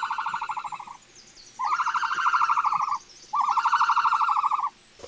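Meerkat calling: three long, rapidly pulsing calls of about a second and a half each, steady in pitch, with short gaps between them.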